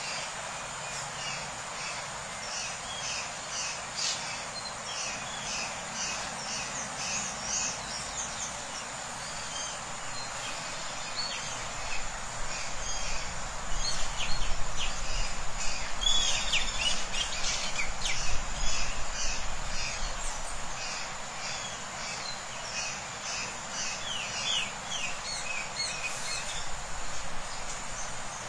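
Small birds chirping in quick repeated call series over a steady high insect drone. A low rumble swells in the middle.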